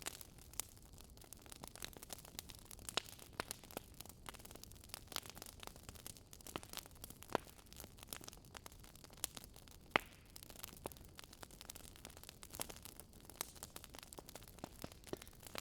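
Wood fire crackling: irregular sharp pops and snaps over a soft steady hiss, a few pops louder than the rest.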